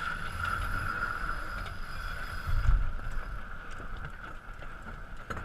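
Sailboat under way: a steady hiss of wind and water, with wind buffeting the microphone in low gusts, the strongest about two and a half seconds in.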